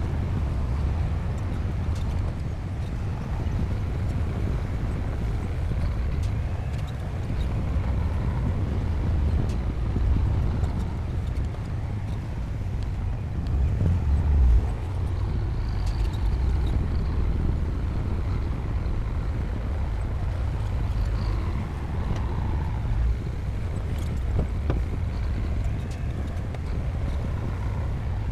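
Bulldozer's diesel engine running steadily under load, a deep rumble with scattered metallic clanks and a brief surge about halfway through.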